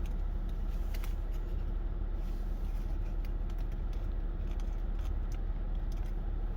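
Steady low hum of background noise, with a few faint scattered clicks and rustles from handling a burger and its wrapper.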